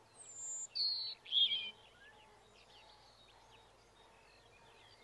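Birds singing: a few clear whistled phrases, each lower than the last, in the first second and a half, then fainter chirping.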